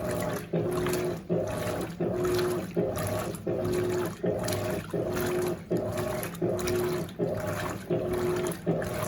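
Electrolux LAC16 top-loading washing machine agitating on turbo at the high water level, driven by a 1/4 hp WEG motor. The motor hums in even strokes, about three every two seconds, and its pitch alternates between lower and higher as the agitator reverses. Water and a heavy load of clothes slosh throughout.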